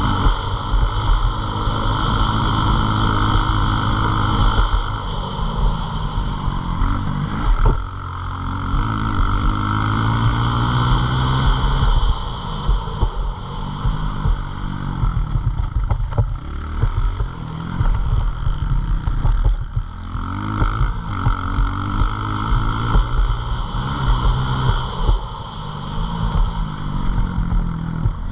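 Pit bike's small single-cylinder engine running hard, its pitch repeatedly climbing and dropping as the throttle is worked, under a steady rushing noise.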